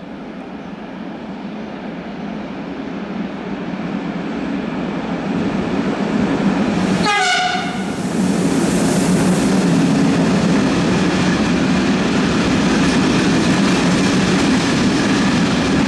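Freight train passing close by: the locomotive's rumble grows louder as it approaches, it gives a short horn blast about seven seconds in, and then the long line of wagons rolls past steadily.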